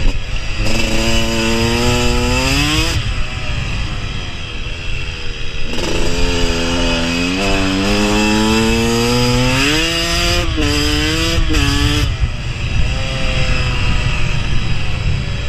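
KTM dirt bike engine accelerating hard twice, its pitch climbing through gear changes and falling away as the throttle is rolled off in between. There are a few quick throttle chops about eleven seconds in, then the engine settles to a lower, steady note near the end.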